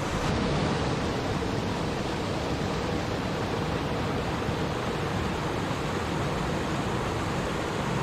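Stream water flowing and babbling in a steady, unbroken rush.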